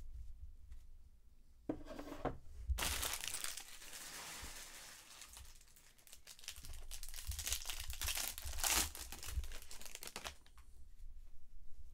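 A trading-card pack's foil wrapper being torn open and crinkled by hand: a brief rustle, then several seconds of dense crackling that dies away near the end.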